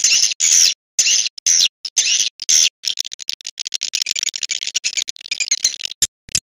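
Recorded swiftlet calls: rapid, high twittering chirps in choppy runs broken by short silences. This is the lure call played at swiftlet houses to draw birds in.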